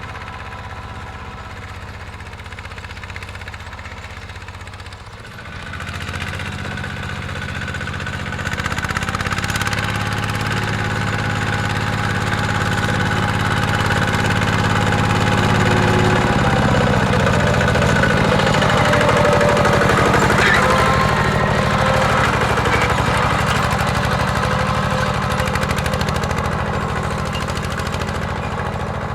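Mini tractor engine running steadily while plowing. It grows louder about a third of the way in, and its pitch drops slightly around the middle before easing off near the end.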